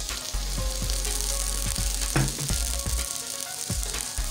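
Cut green beans sizzling in hot vegetable oil with chopped onions and garlic in a pot, just after being added, with several knocks along the way.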